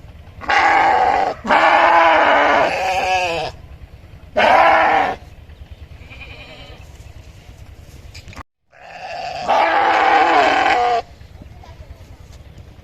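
Sheep bleating: four loud, quavering bleats, the last a long one near the end, over a steady low background noise.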